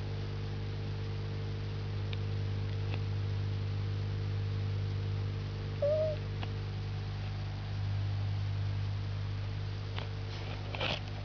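A house cat gives one short, chirp-like call about six seconds in, the odd bird-like sound a cat makes while watching birds. A steady low hum runs underneath, and there are a few faint clicks and a short scratchy noise near the end.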